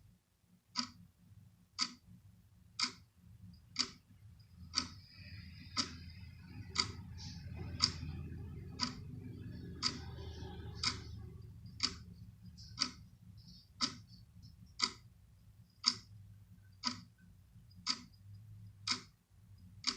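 A clock ticking steadily, about one tick a second, over a low hum.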